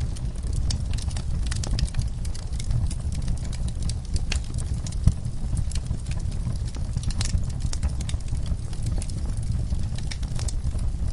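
Fireplace crackling: many small sharp pops and snaps over a steady low rumble, with one louder pop about halfway through.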